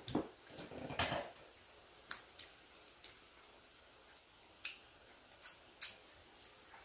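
A person chewing a mouthful of barbecued ribs with the mouth closed, close to the microphone: a few soft wet smacks in the first second or so, then sparse sharp clicks of the lips and tongue.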